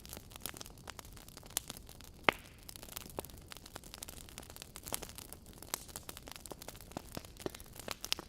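Wood fire crackling: irregular sharp pops and snaps over a low steady hiss, the loudest pop a little over two seconds in.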